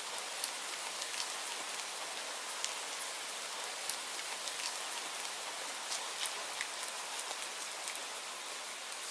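Steady rainfall, an even hiss with scattered sharp drop ticks against a surface.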